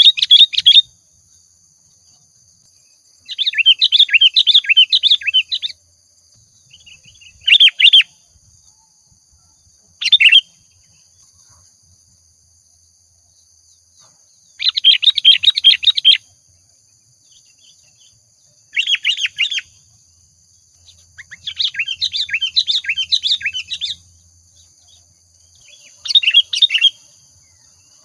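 Sooty-headed bulbul singing: about eight loud bursts of quick chirping notes, each from half a second to three seconds long, with pauses between them. A faint steady high-pitched tone runs underneath.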